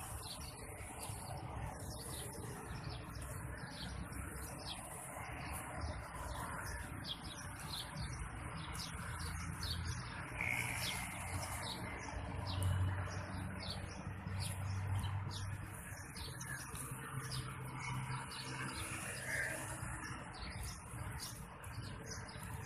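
Birds chirping here and there over a steady low rumble that swells around the middle.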